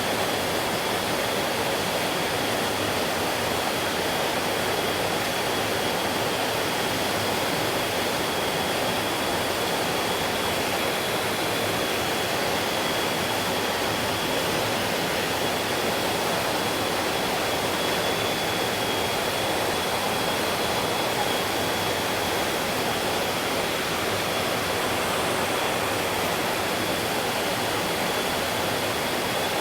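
Mountain stream water rushing and splashing steadily over rocks, a dense even flow. A thin, steady high tone sits faintly over it.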